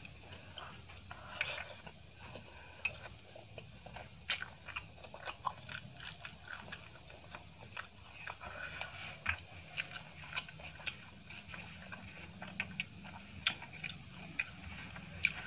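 A person chewing rice and vegetables eaten by hand, with fingers gathering food on a steel plate; many small sharp clicks come irregularly throughout.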